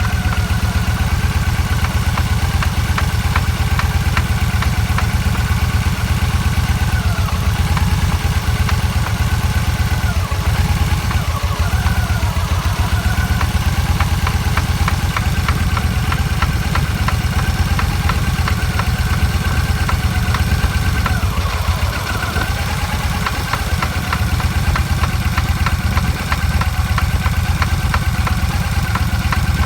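Vehicle running with a steady low drone and a high whine that wavers in pitch: the noise from the front wheel, which the owner says sounds like worn wheel bearings.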